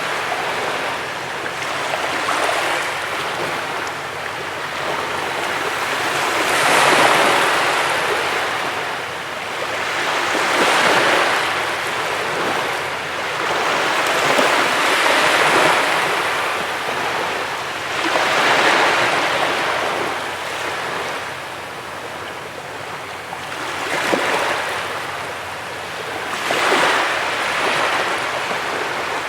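Small waves breaking and washing up a beach, a steady surf hiss that swells every three to four seconds.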